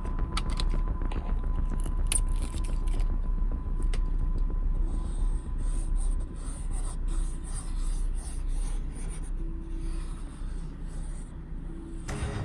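Rubbing and scraping of hand tools working a plastic scale-model part, like sanding or filing, with scattered small clicks over a low steady hum.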